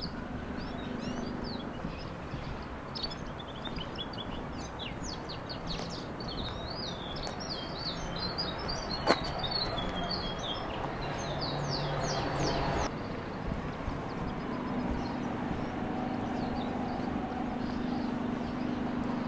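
Small birds chirping busily over a steady low outdoor hum, with one sharp click about halfway through. The birdsong cuts off abruptly about two-thirds of the way in, leaving only the steady hum.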